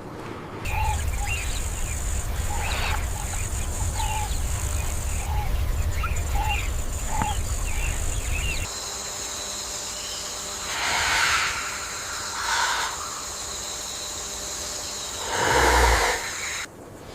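Outdoor nature ambience in two parts. First comes a low rumble with short chirps repeating about once a second, bird-like. About halfway through it changes to a steady high hiss with a few rising-and-falling whooshes, the loudest near the end.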